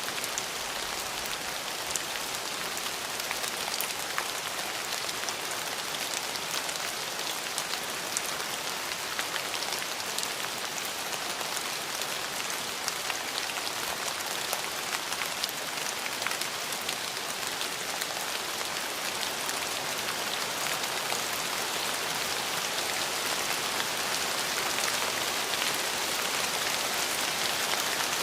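Steady rain falling, a dense even hiss thick with the small ticks of individual drops hitting a surface, swelling slightly near the end.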